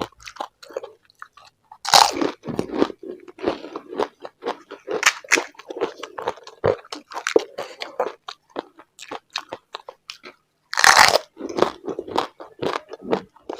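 Close-up crunching and chewing of pani puri: crisp, hollow fried puri shells cracking between the teeth, with many small crackles. Two louder crunches come, about two seconds in and again late on.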